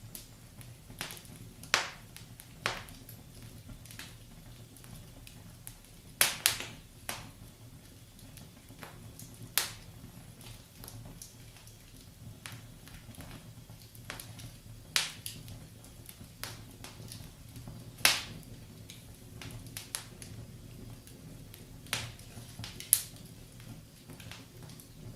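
Wood fire crackling in a fireplace: sharp, irregular pops every second or few seconds over a low, steady rumble.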